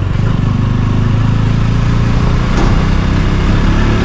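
Motorcycle engine running steadily while riding, with a constant low drone and road noise.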